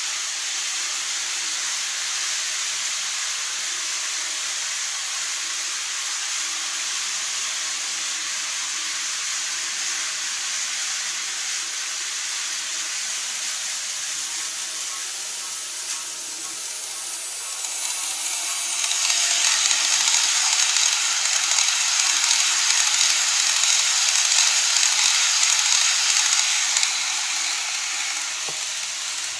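KATO model train running on layout track: a steady hissing whir of wheels and motor. It swells louder about eighteen seconds in as the train comes close, then eases off near the end.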